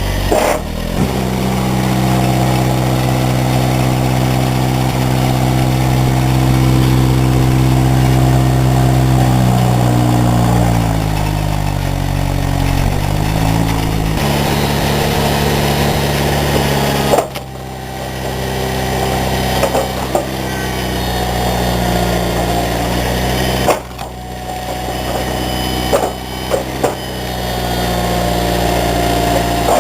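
Small engine driving a wood-splitting machine, running steadily. Its pitch sags and wavers about ten seconds in as it takes load, then settles. Two abrupt breaks in the sound come later, along with a few short knocks.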